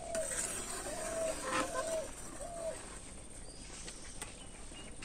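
A bird calling outdoors: a run of short, low, pitched notes over the first three seconds, then fading to faint background.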